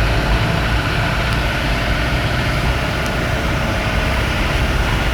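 Steady engine and road noise of a motor vehicle on the move, a low rumble under an even hiss.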